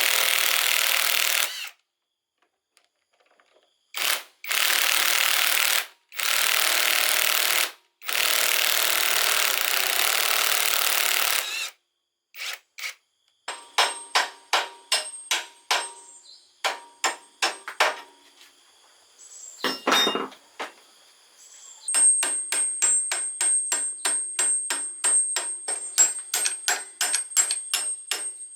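Workshop tool noise: four bursts of steady hissing of a few seconds each, then from about halfway a long run of quick, evenly repeated striking or scraping strokes, about three to four a second near the end.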